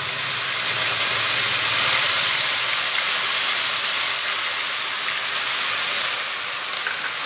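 Hot ghee sizzling hard as ground garlic paste is added to onions frying in a pan, a dense steady hiss.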